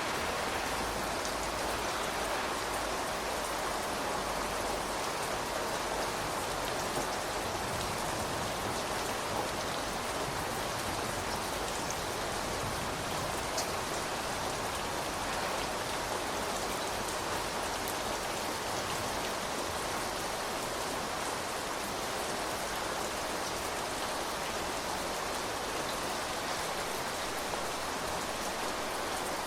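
Steady rain falling: an even hiss of many drops, with scattered faint drop ticks.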